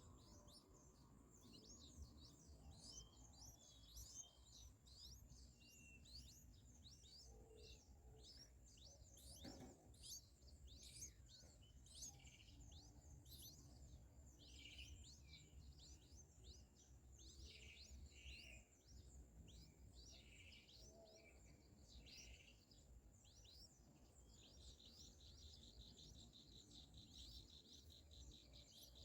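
Faint, rapid, high thin chirps from streak-eared bulbul nestlings begging for food, repeated steadily throughout. A pulsing insect trill joins near the end.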